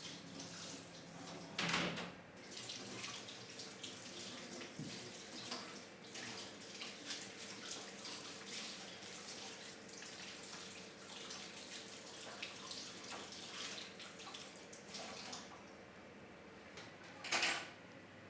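Water running from a tap into a sink for about fifteen seconds, with a brief louder noise near the start and another near the end.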